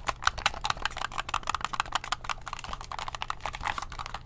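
Buttons of an Xbox One controller being pressed rapidly, a fast, irregular run of sharp plastic clicks, many a second.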